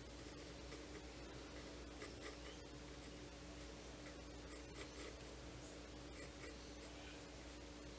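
Faint, quick drawing strokes scratching across a sketchbook page during a sketch, with a low steady hum underneath.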